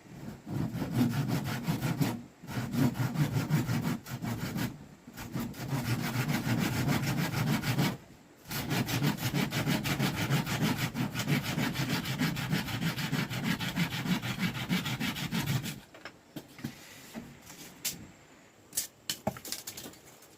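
Hand saw cutting bamboo with fast, even back-and-forth strokes, pausing briefly a few times. The sawing stops about three-quarters of the way through, followed by a few light knocks.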